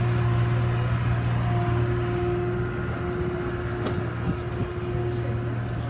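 A vehicle engine idling with a steady low hum, and a single sharp click about four seconds in.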